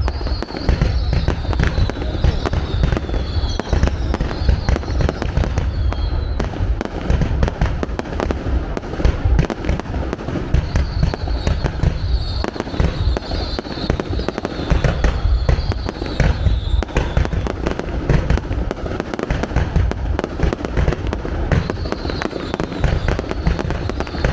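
Continuous fireworks barrage: rapid, overlapping booms and crackling bangs, with high whistling tones drawn out over a few seconds at times.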